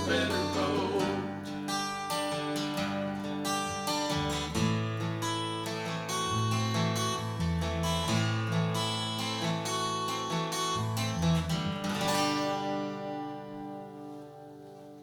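Acoustic guitar playing the song's instrumental outro, strummed chords over low bass notes. It ends on a final strummed chord about twelve seconds in that rings out and fades away.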